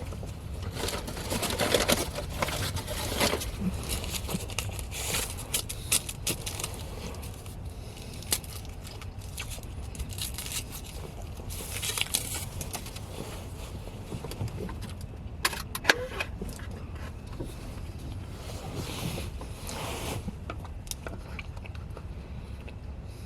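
Car on the move: a steady low road-and-engine rumble, with passing washes of road or wind noise and a few sharp clicks or knocks about two-thirds of the way through.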